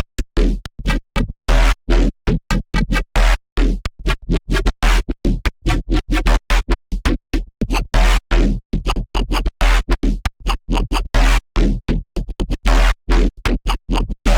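A Serum wavetable synthesizer patch built from an image-derived wavetable plays a stuttering run of short, gritty notes with a heavy sub-bass. The notes are chopped by silent gaps, several per second, and start suddenly out of silence.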